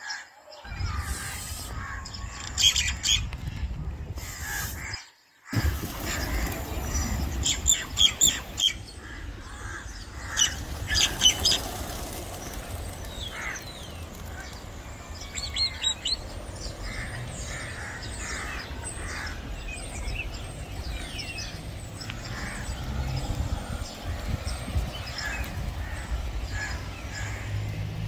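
Several birds chirping and squawking in short, repeated calls over a steady low rumble, with a few louder sharp calls. The sound drops out briefly twice: once just at the start and once about five seconds in.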